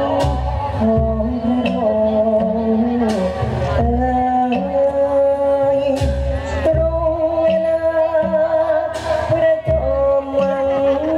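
Live Thai theatre-band music: a sustained melody line stepping between notes over a steady low drum beat.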